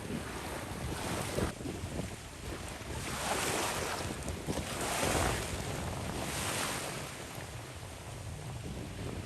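Wind buffeting the microphone over moving river water, a rushing noise that swells and eases several times.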